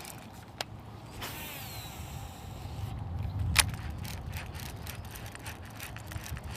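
Wind rumbling on the microphone, with scattered clicks and rattles of fishing gear handled on a kayak, including one sharp click about three and a half seconds in and a run of quick ticks near the end.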